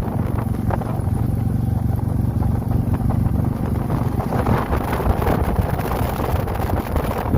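Motorcycle engine running steadily under way, a low even drone with road and air noise over it.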